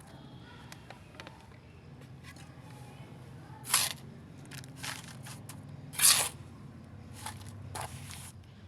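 A few short scraping or crunching handling noises, two of them much louder at about four and six seconds in, over a low steady hum.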